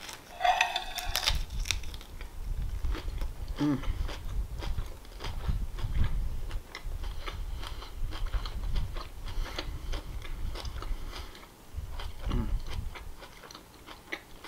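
A crunchy bite into a sandwich wrapped in lettuce leaves in the first second or so. Then close-miked chewing with wet mouth clicks, and a contented "mmm" about three and a half seconds in.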